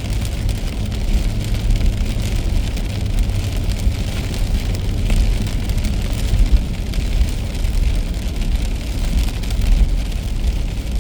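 Car driving on a wet road in the rain: a steady low road rumble under a constant hiss of rain and spray, with fine ticks of raindrops.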